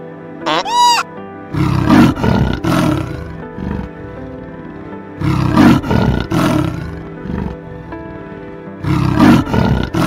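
A big cat roaring in three bouts about three and a half seconds apart, each a cluster of deep, rough pulses, over steady background music.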